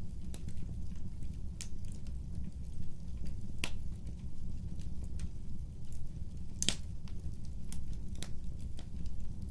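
Wood fire burning with a low steady rumble and scattered crackles and pops, two of them louder: one a little under four seconds in and one near seven seconds.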